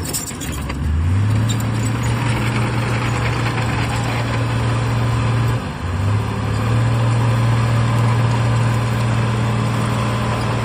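Heavy diesel engine of earthmoving machinery running steadily. Its pitch drops briefly near the start and again about six seconds in, then climbs back up each time.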